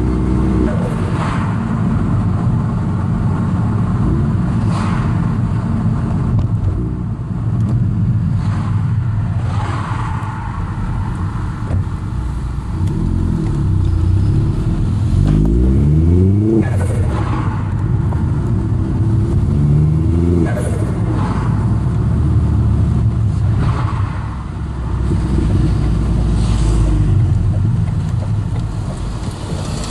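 Vauxhall Astra VXR's turbocharged four-cylinder engine driving at low to moderate revs, heard from inside the cabin over steady road noise. Twice in the middle the revs climb and are then cut off abruptly.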